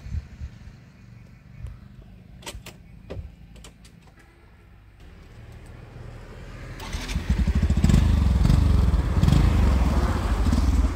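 A motor vehicle's engine, faint at first, then growing loud about seven seconds in and running with a low, fast pulsing. A few sharp clicks come about two and a half to three seconds in.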